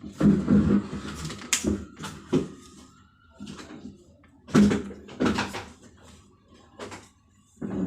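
Irregular clicks and knocks of parts being handled, a dozen or so sharp strokes spaced unevenly, loudest in a cluster just after the start and again about four and a half seconds in.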